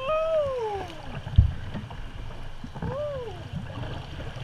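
Two drawn-out calls in a person's voice, each rising briefly and then falling in pitch, the first one longer. Behind them is a steady rush of moving creek water, with a single bump about a second and a half in.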